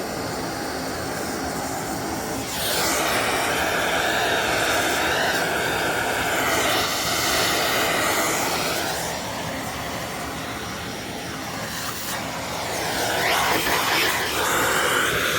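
A loud, steady rush of blown air from an air blower aimed at a dusty vacuum filter, clearing dust out of it. It swells about two and a half seconds in, eases off for a few seconds past the middle, then picks up again, its tone shifting as the air stream moves over the filter.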